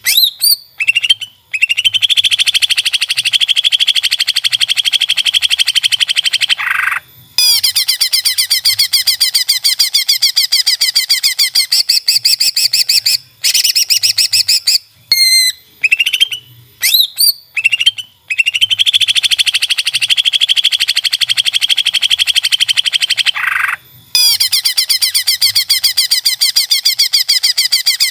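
Green leafbird (cucak ijo) singing loudly: long runs of very rapid, repeated high notes and chatter, broken by short pauses and a few sharp whistled glides.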